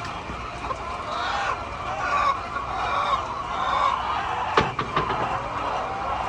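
Flock of chickens clucking, many overlapping calls at once, with a single sharp knock a little past halfway.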